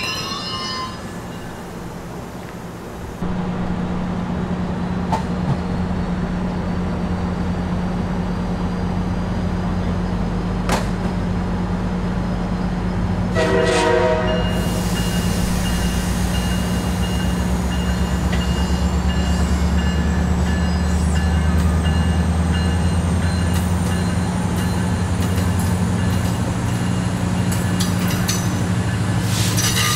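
MARC bilevel commuter train running slowly by: a brief wheel squeal at the start, then the steady low drone of its diesel locomotive, which grows heavier in the second half. A short horn blast sounds about halfway through.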